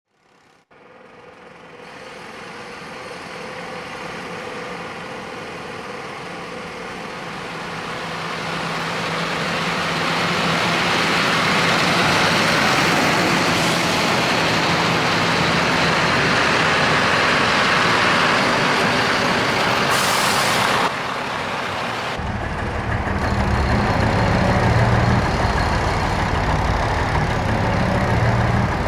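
Heavy truck traffic sound that swells in over the first ten seconds or so and stays loud. About twenty seconds in there is a short hiss of air brakes, and then a heavy diesel engine rumbles low.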